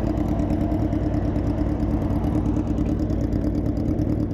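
Motorcycle engine running steadily with an even, unbroken drone.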